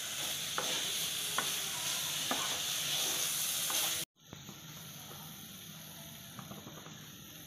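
Long beans and grated coconut sizzling in a nonstick kadai while a spatula scrapes and stirs through them, a stroke about once a second. About four seconds in the sound cuts out suddenly and comes back as a fainter, steady hiss.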